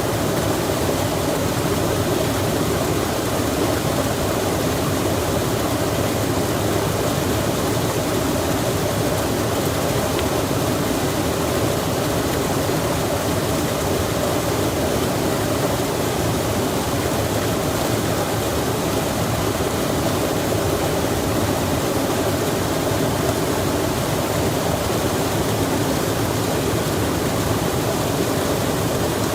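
A stream's water rushing steadily, with rain falling, an even wash of sound with no breaks.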